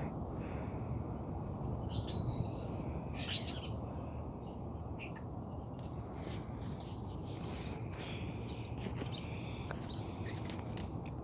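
Wild birds chirping and calling in short, high-pitched bursts, clustered a couple of seconds in and again near the end, over a steady low rumble.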